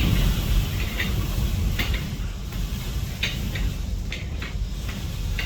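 Strong downslope wind blowing against the house, heard from indoors as a steady low rumble, with a few short irregular clicks or ticks.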